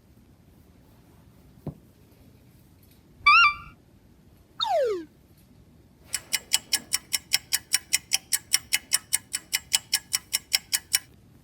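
A string of cartoon sound effects: a single click, a short wavering tone, and a falling whistle, then about five seconds of fast, even ticking, around five ticks a second. A rising whistle starts right at the end.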